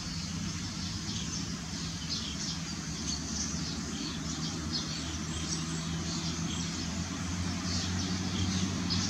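Small birds chirping, many short high calls in quick, irregular succession, over a steady low hum.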